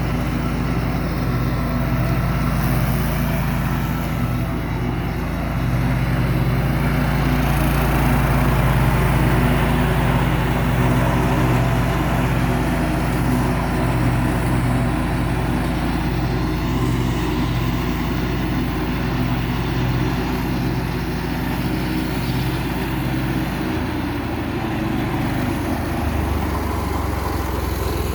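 1975 Cub Cadet 1000 garden tractor's 10 horsepower Kohler single-cylinder engine running steadily with the PTO engaged and the mower deck turning. About 24 seconds in its pitch drops as the engine slows.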